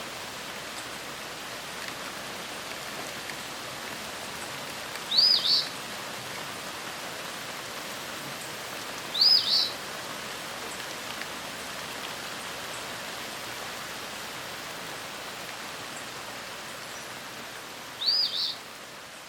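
A bird gives a short, sharp double call three times, high-pitched and well spaced, over a steady background hiss of outdoor ambience.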